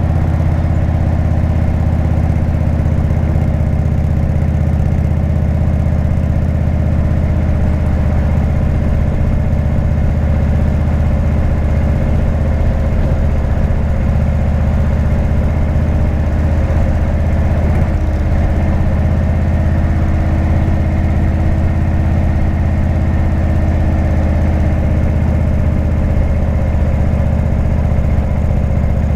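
Indian V-twin motorcycle engine with a Jekill & Hyde exhaust running at steady, unchanging revs, with a deep, even low-pitched note.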